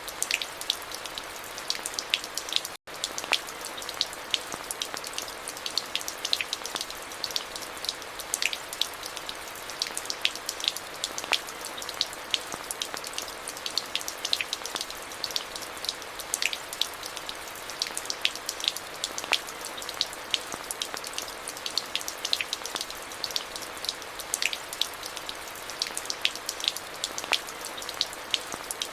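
Steady rain, with many individual drops ticking sharply on hard surfaces over an even hiss. It cuts out for a split second about three seconds in.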